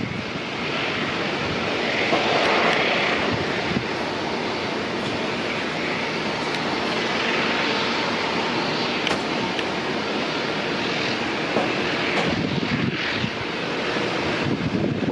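A passing airliner's engines give a steady rushing noise that swells and eases slightly.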